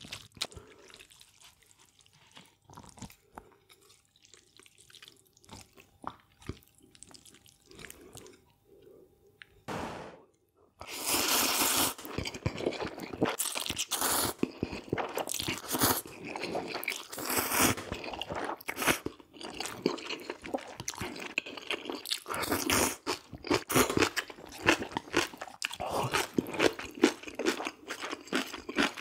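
Close-miked eating of squid jjamppong noodle soup: light scattered clicks for about ten seconds, then from about eleven seconds in, continuous loud chewing and mouth sounds.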